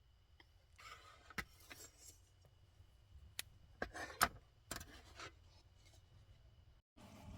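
Small handling noises: rubbing and rustling with a few sharp clicks, over a faint steady high tone. Near the end the sound drops out briefly and gives way to a louder, steady background hiss.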